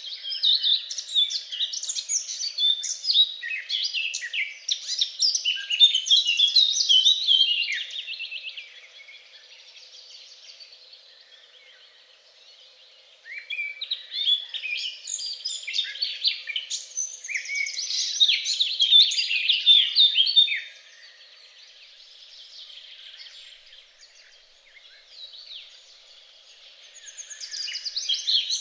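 Songbird singing in long phrases of rapid, high notes, each lasting several seconds, with quieter pauses between them; a third phrase begins near the end.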